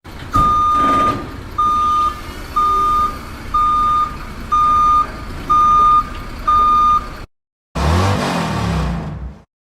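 Truck reversing alarm beeping seven times at one steady pitch, about once a second, over a low engine rumble. It cuts off briefly, then a rumbling engine noise follows near the end.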